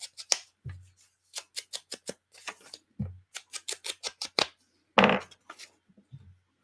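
Scissors cutting paper: a run of quick, irregular snips, with a few soft knocks of the paper and scissors on the table and one louder knock about five seconds in.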